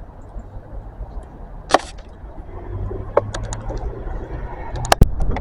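Low rumble of a train at a station platform, growing louder in the second half, with a few sharp clicks or knocks scattered through it; the loudest knock comes about five seconds in.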